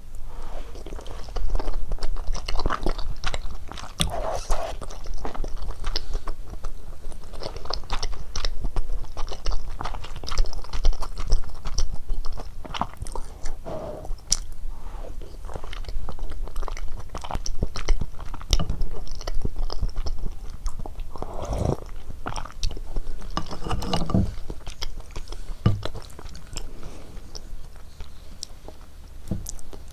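Close-miked eating sounds of cheese ramen with dumplings: steady chewing and biting made up of many small wet clicks and crunches, with a few longer, louder mouthfuls about two-thirds of the way through.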